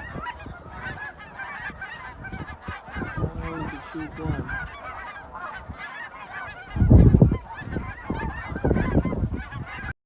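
Snow geese calling, a dense chorus of many overlapping high honks and yelps. Gusts of wind buffet the microphone with heavy low rumbles about two-thirds of the way in and again near the end.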